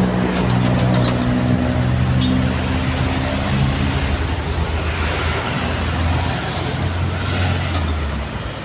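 Hino truck's diesel engine running hard on a steep climb, over a steady rush of road and wind noise. About three seconds in its note drops lower and holds there until near the end.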